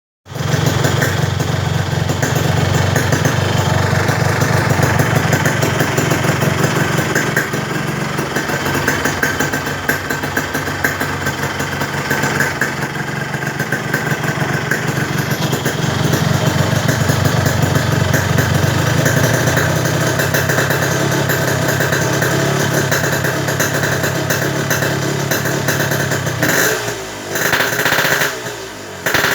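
Yamaha RX-King two-stroke single-cylinder engine running steadily through an Altech C20RR aftermarket exhaust. Near the end the pitch and loudness change twice, as if the throttle is blipped.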